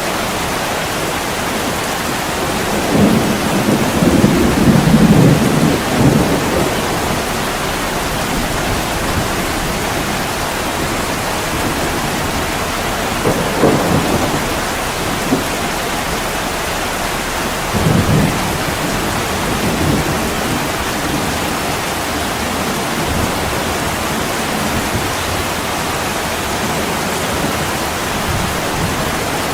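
Steady heavy rain pouring on a window pane, with several low rumbles of thunder rolling through, the loudest a few seconds in.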